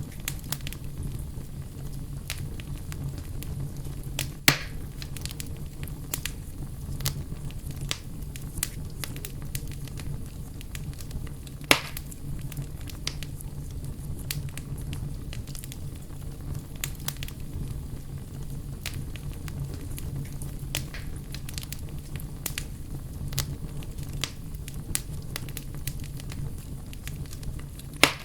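Wood campfire burning, crackling with frequent small pops over a steady low rumble of flame. There are three louder snaps: about four seconds in, near the middle, and at the end.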